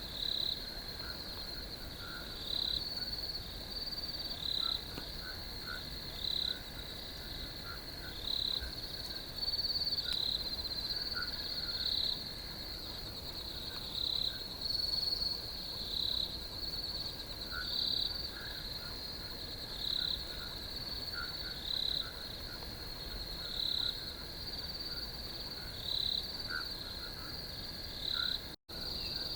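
Crickets chirping in a continuous high-pitched trill, swelling into louder pulses about every one and a half to two seconds, with fainter scattered ticks lower down. The sound cuts out for a moment near the end.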